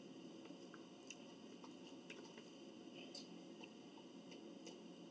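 Near silence: faint chewing of food, with small soft clicks every second or so over a steady low room hum.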